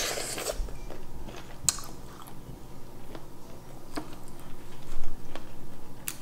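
Close-mic chewing of shrimp, with a few sharp clicks of mussel shells being handled and scraped against each other.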